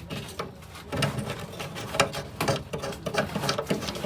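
Irregular light clicks, knocks and rattles of washing-machine water hoses and their metal fittings being handled and connected to the hot and cold supply.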